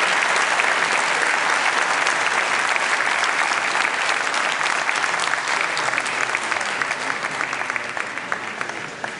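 Audience applauding, a dense crowd of handclaps that dies down near the end.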